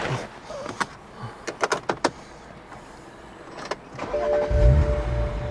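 A few light clicks, then about four seconds in the BMW E92's engine starts and settles into a low idle. A steady ringing dashboard warning chime sounds over it, which the owner puts down to a dodgy coolant sensor.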